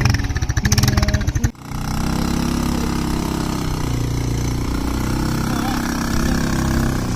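Background music with a steady beat for about a second and a half, then an abrupt cut to an ATV quad bike's engine running steadily.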